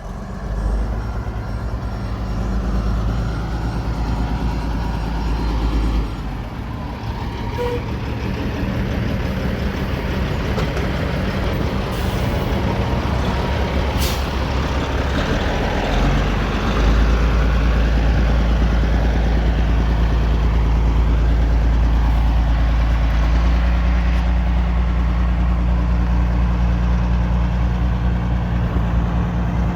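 Heavy diesel dump truck engine running steadily, with a heavier, louder low drone from about halfway through and a brief sharp hiss or click near the middle.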